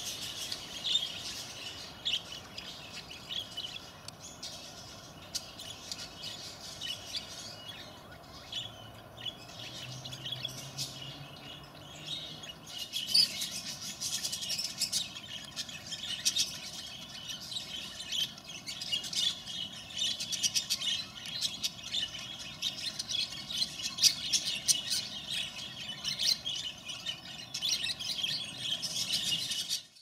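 Small birds chirping and twittering in many short, high calls, fairly sparse at first and busier from about the middle on.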